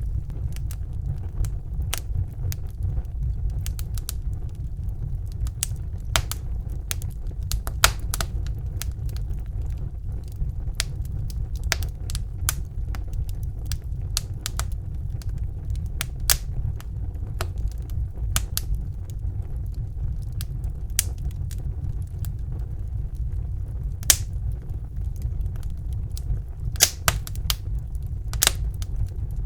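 Wood fire burning in a fireplace: irregular crackles and sharp pops over a steady low rumble, with a few louder pops and several close together near the end.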